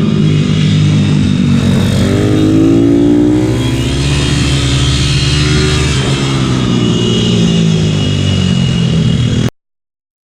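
Pitbike engine heard onboard at racing pace, its revs rising and falling through the corners, with wind hiss over it. The sound cuts off abruptly about nine and a half seconds in.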